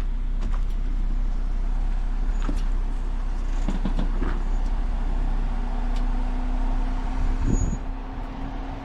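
Off-road vehicle engine running steadily at low speed while crawling over rough trail, with scattered knocks and clatter from the rocky ground and suspension.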